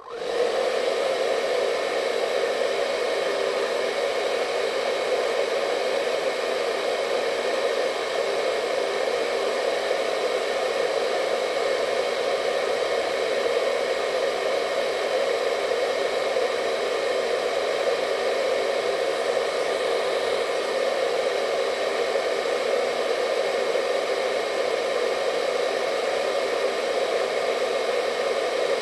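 Hair dryer running steadily, a constant airy whoosh with a motor hum.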